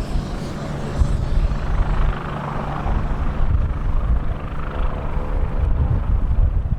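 Mitsubishi F-2 fighter's jet engine, a rumble whose high hiss fades after about three seconds as the jet moves away, with strong wind buffeting the microphone.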